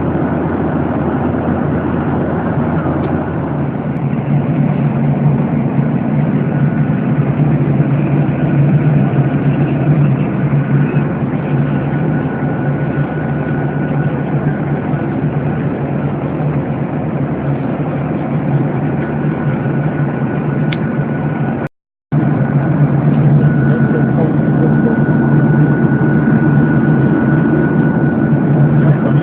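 Steady cabin noise of a Boeing 737-800 in flight: the drone of its CFM56 turbofans and the airflow, a low hum with a faint high steady tone above it. It drops out to silence for a split second about 22 seconds in.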